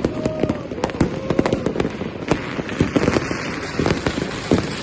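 Many fireworks and firecrackers going off all around in rapid, irregular succession: a dense run of sharp bangs and pops over continuous crackling.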